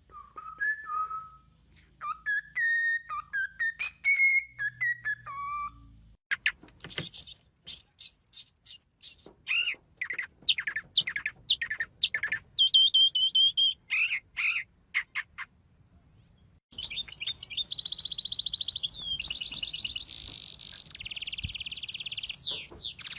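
A parrot calling: a run of whistled notes first, then quick high chirps, and after a short pause, long harsh buzzing calls.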